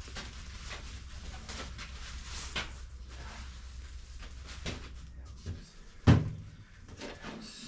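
Scattered knocks and clicks of objects being handled and set down, with one loud sharp knock about six seconds in. A low steady hum stops shortly before it.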